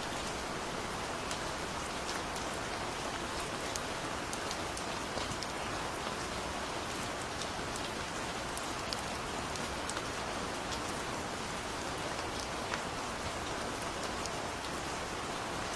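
Steady rain falling, a constant even hiss with many small, distinct drops ticking on a surface.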